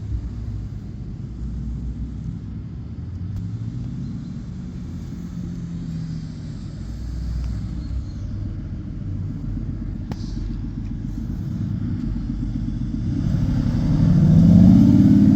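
Sports car engines rumbling at low revs. Near the end one engine gets louder and rises in pitch as it accelerates or draws closer.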